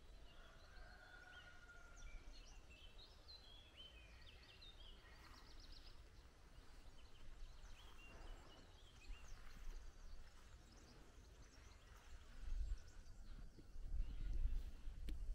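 Small birds singing, many short chirps and quick trills, busiest in the first half. Twice near the end a low rumble swells up over them.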